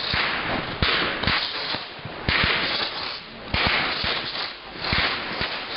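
Fireworks going off in quick succession: a sharp bang with a deep thump roughly every second, each followed by a hissing crackle.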